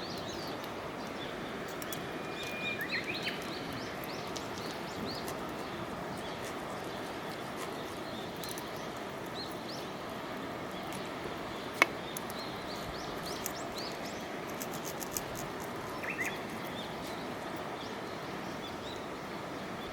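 Outdoor ambience: a steady rushing background with birds chirping now and then, and a single sharp click about twelve seconds in.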